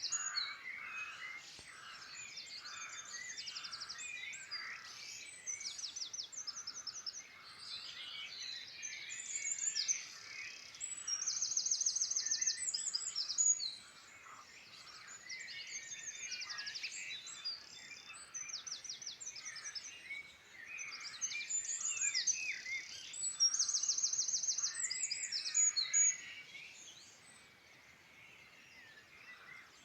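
Several songbirds singing at once, overlapping songs with repeated fast high trills and lower warbling chirps, growing quieter near the end.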